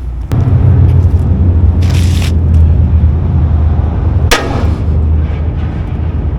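A hammer striking a bent truck bumper to straighten it: one sharp strike about four seconds in, with a shorter scuffing hit near two seconds, over a loud low rumble.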